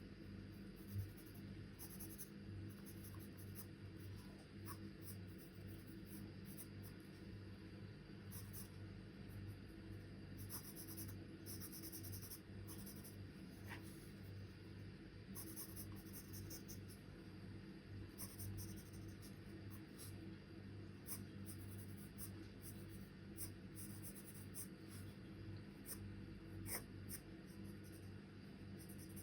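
Faint scratching of charcoal on paper in short, irregular sketching strokes, over a steady low hum.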